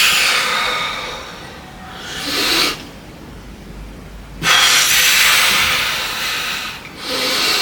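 A person breathing hard from exertion during weight training: two long, forceful exhales, each followed by a shorter, quickly rising inhale.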